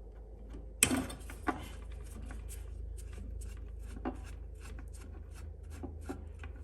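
A sharp clack about a second in, then a steady run of short rubbing strokes, about three a second, as a fuel-pump wire contact is worked over by hand to get it clean.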